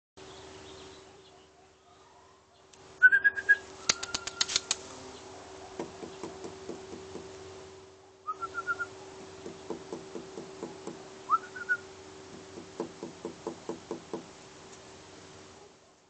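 Bird calls near a nest: a short whistled note three times, and runs of quick ticking notes, about six a second, between them. A cluster of sharp clicks follows just after the first whistle.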